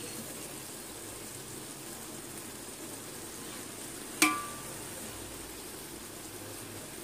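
Steady sizzling hiss from fried vegetables in a hot pot under a heap of boiled rice, for chicken and vegetable fried rice. About four seconds in there is one sharp metallic clink with a brief ring, a metal utensil striking the pot.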